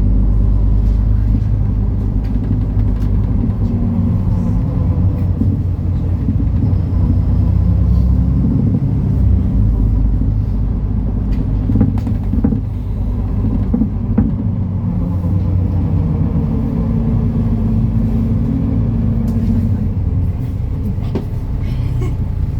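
MAN Lion's City NL293 city bus diesel engine running under way, a steady low rumble whose pitch rises and falls a little as the bus drives, with a few short knocks.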